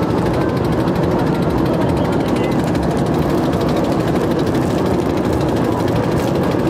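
An engine running steadily with a fast, even chugging pulse, like a river boat's motor.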